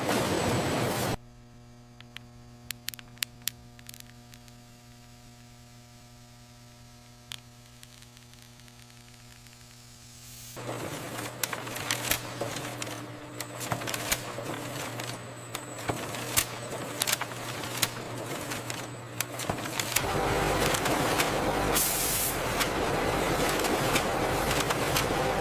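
Factory machinery: a steady electrical hum with scattered sharp clicks. Just past halfway, louder hissing machine noise with frequent ticks comes in, and it grows louder again near the end.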